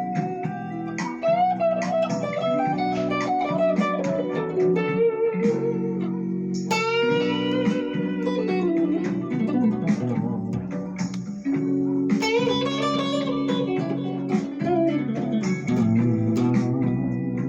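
Guitar music: a plucked guitar melody with notes sliding in pitch over sustained chords.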